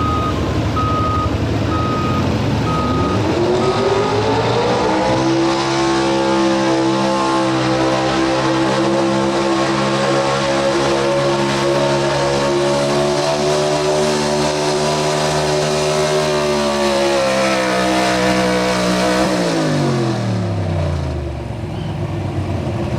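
Pro Street 4x4 pulling truck's engine climbing in revs, then held at high revs for about fourteen seconds while the truck pulls the sled, then the revs falling away near the end as the run finishes. A steady electronic beeping, typical of a reversing alarm, sounds through the first few seconds.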